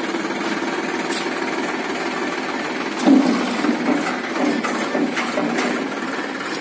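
Sonalika DI 47 RX tractor's three-cylinder diesel engine running with a steady, rapid clatter. Uneven louder bursts join in about halfway through.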